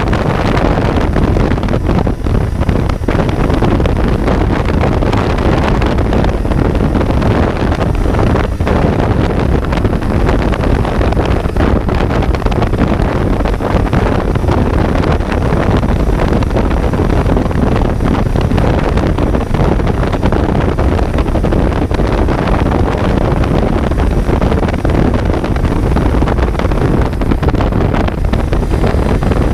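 Kawasaki Z900 inline-four engine running under way, heard from on board, with heavy wind noise on the microphone.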